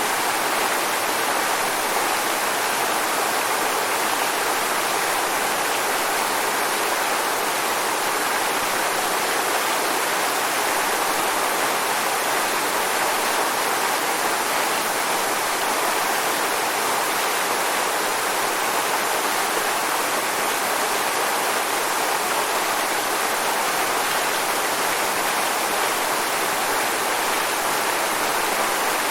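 Waterfall: a steady, unbroken rush of falling water, hissy rather than deep, with little low rumble.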